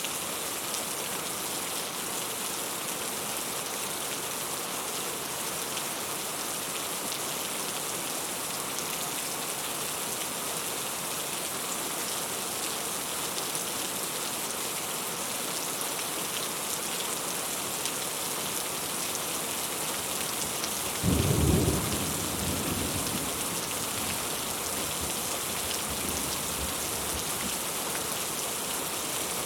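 Heavy rain falling in a steady hiss. About two-thirds of the way through, a single loud clap of thunder breaks in and rumbles away over a few seconds.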